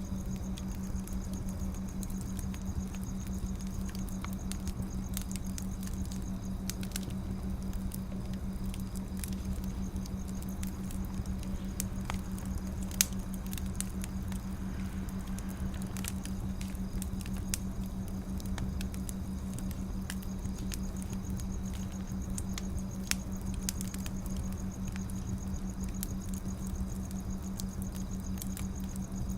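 Firewood burning, crackling with scattered small pops and a few sharper ones, about halfway through and again a little later, over a steady low hum.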